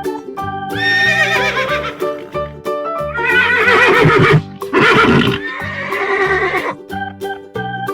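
Horse whinnies, several in a row with a quavering, wavering pitch, over background music with a steady beat.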